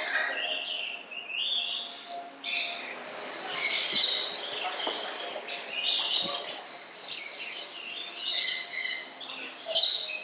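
Several small birds chirping and calling over one another in short, high calls that come close together.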